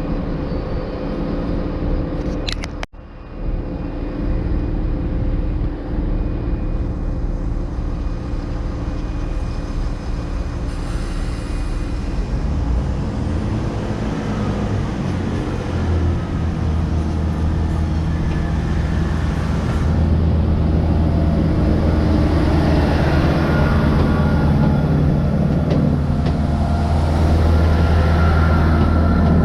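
Diesel train engines running with a steady low drone. There is a brief break about three seconds in. The sound then grows louder and deeper about halfway through and again about two-thirds of the way in, as the train powers up.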